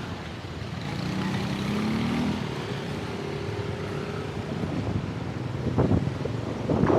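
Road traffic heard from a moving bike, with a vehicle's engine rising in pitch about a second in and then holding steady. Wind buffets the microphone louder near the end.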